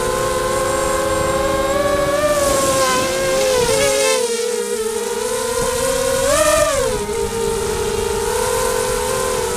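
Spedix 250 FPV quadcopter's four brushless motors and propellers whining together in several close pitches. The pitches wander and the low rumble drops out about four seconds in, then the whine swells briefly higher around six and a half seconds as the throttle changes.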